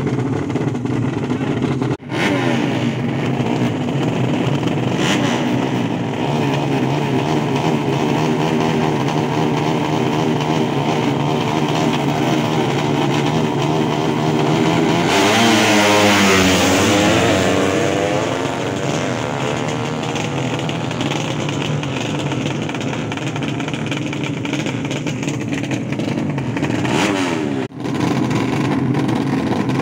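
Drag-racing motorcycle engines running loud and revving. One bike passes close about halfway through, its pitch dropping as it goes by. The sound briefly cuts out twice, once near the start and once near the end.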